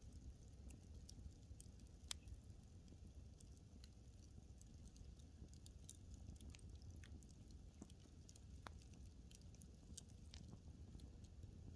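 Wood fire in a fireplace crackling quietly: scattered, irregular sharp pops and ticks over a steady low rumble of the burning logs, with one louder pop about two seconds in.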